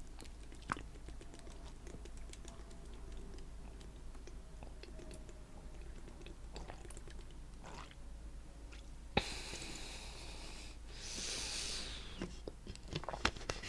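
Close-miked mouth sounds of eating coconut cheesecake: soft, wet chewing with scattered small clicks and one sharper click about nine seconds in. Two short breathy hisses come a little after that, heavy breathing while eating.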